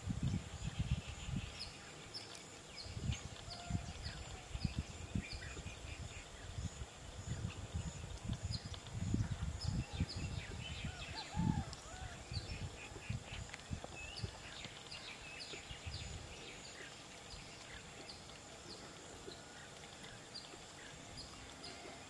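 Birds chirping in a tree: a short high chirp repeated about once or twice a second, with scattered chattering notes between. Under them, uneven low rumbling buffets on the microphone die away about two-thirds of the way through.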